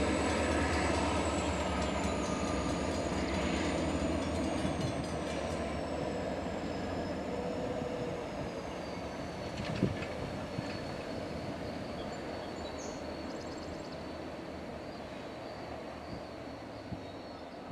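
Freight train on a switching move: a diesel locomotive's low rumble with a thin, high wheel squeal that slowly falls in pitch, the whole sound fading as the train draws away. A single sharp clank about ten seconds in.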